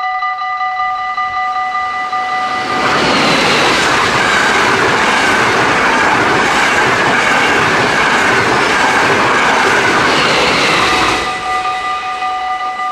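Level-crossing warning bell ringing steadily. About three seconds in, an NS double-deck passenger train passes close by for about eight seconds, and its loud rushing rail noise drowns the bell. The bell is heard alone again near the end.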